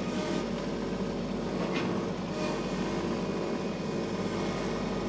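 Farm tractor engine running steadily at low revs.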